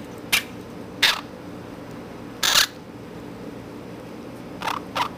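Baby parrots giving short, harsh squawks, about five of them, the one near the middle the longest and loudest.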